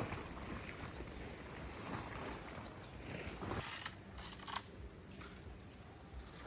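Insects chirring in a steady, high-pitched chorus, with a few scattered light knocks and rustles.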